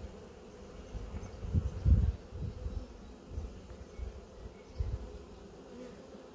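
Honeybee swarm buzzing steadily as it marches into a new hive box where its queen has been placed. Workers at the entrance are fanning with their abdomens raised, signalling the new home. Irregular low rumbles come through for a few seconds, the strongest about two seconds in.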